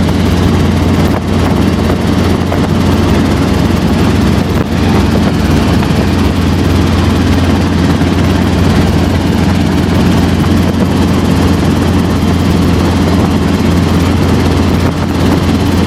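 Helicopter in flight: a steady, loud drone of rotor and engine with a strong low hum, unchanging throughout.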